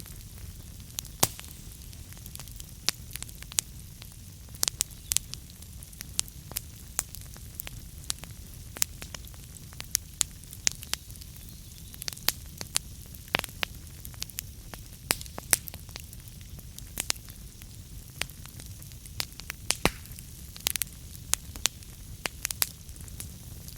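Wood fire burning in a fireplace: a steady low rumble with frequent sharp, irregular crackles and pops of burning logs.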